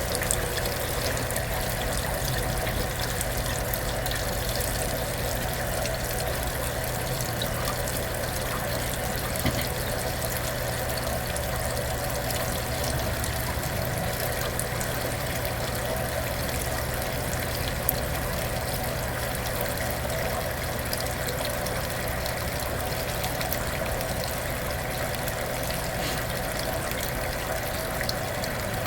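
Kenmore belt-drive portable washing machine running mid-cycle: a steady low hum with continuous water sound.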